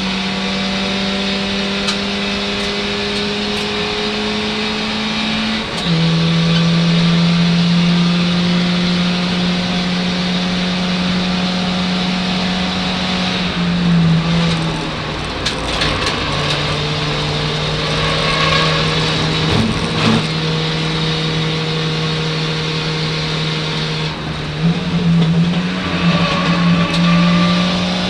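Ford Fiesta Zetec race car's engine at high revs, heard from inside the cabin. The note climbs slowly, then steps down in pitch about six seconds in and again around sixteen seconds, and rises again near the end. A few short knocks come midway.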